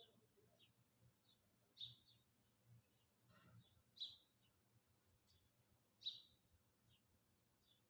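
Faint, short high chirps of a small bird calling, the three clearest about two seconds apart, over near silence.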